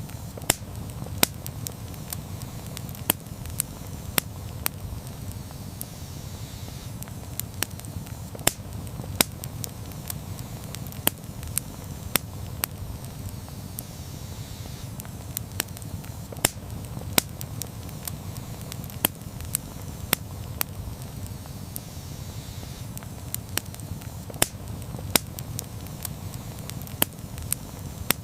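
Wood campfire burning: a steady low rumble of flames with sharp, irregular crackles and pops from the burning wood, often one or two a second.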